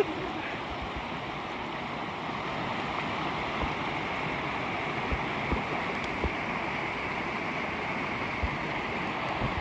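Mountain valley stream flowing over rocks: a steady rushing of water, with a few soft low bumps.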